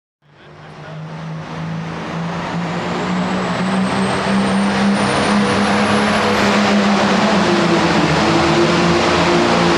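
Super Farm pulling tractor's diesel engine running hard at high revs, fading in from silence and then holding loud and steady. A thin high whine climbs slowly in pitch over the first six or so seconds.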